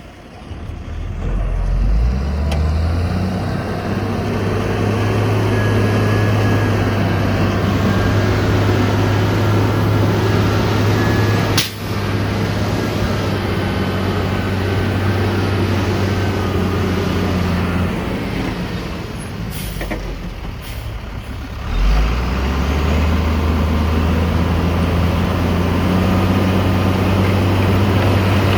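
Heavy diesel engine of a dump truck or bulldozer running hard, its low hum climbing in the first couple of seconds and holding steady. There is a sharp click about twelve seconds in. The engine eases off around eighteen seconds and then picks up again abruptly a few seconds later.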